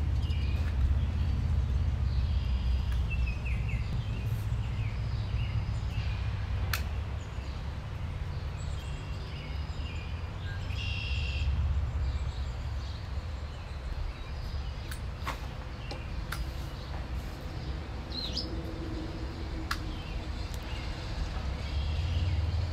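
Birds chirping now and then over a steady low rumble, with a few sharp clicks.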